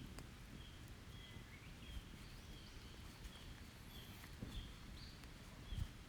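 Faint bird calls in a forest: one short note repeated about twice a second. A few sharp crackles come from an open wood fire.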